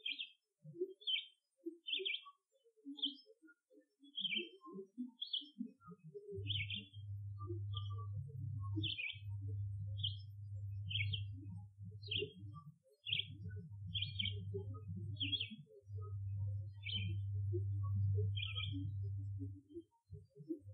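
A songbird repeats short, high chirps about once a second. Under them are scattered low short notes, and from about six seconds in a low, steady hum sets in, coming and going in stretches of several seconds. The recordist takes the low sounds for Bigfoot vocalizations.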